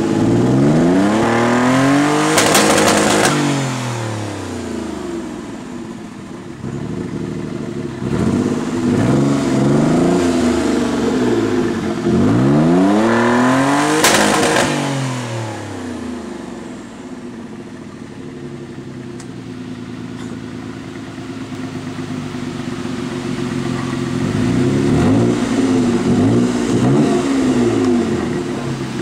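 Mitsubishi 3000GT's V6 engine revved through the exhaust again and again, the pitch climbing and falling with each blip, highest about two seconds in and again around fourteen seconds. It settles to a steady idle in the middle, then is revved a few more times near the end.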